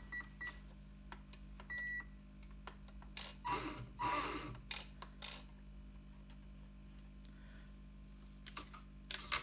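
Electronic beeps from the RC car's electronics: three quick beeps, then one longer beep about two seconds in, all on the same high pitch. These are followed by rustling and clicking from plastic parts and connectors being handled, with a few sharper clicks near the end.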